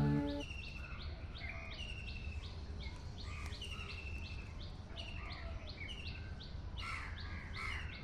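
Small birds chirping: a rapid series of short high chirps, about three a second, mixed with a few longer whistled notes, over a steady low background rumble. The tail of a song's music cuts off in the first half-second.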